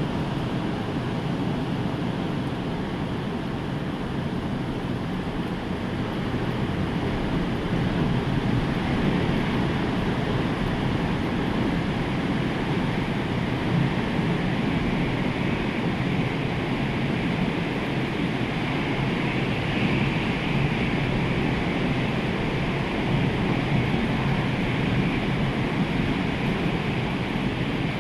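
Rough storm surf: a steady, dense rush of breaking waves, with wind blowing.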